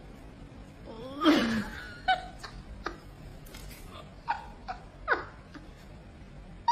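A few short, scattered bursts of a person's laughter and snickering, separated by quiet stretches.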